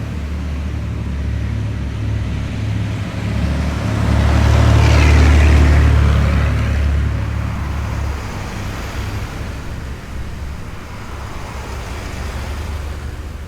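Heavy military vehicles driving past in a column: a steady low engine drone, with one vehicle passing close and loudest about five seconds in, then fading.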